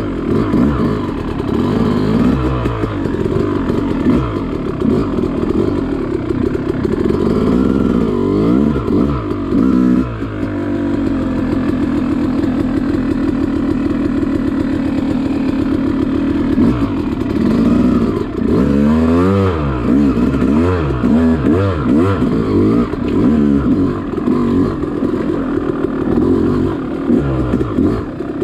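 Yamaha YZ two-stroke dirt bike engine under way, revs rising and falling with the throttle. It holds a steadier note for several seconds about a third of the way in, then revs up and down quickly in the middle.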